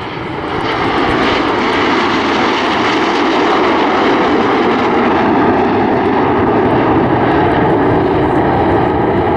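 Seven BAE Hawk T1 jets flying over in formation, the noise of their Rolls-Royce Adour turbofans building over the first second and then holding steady and loud.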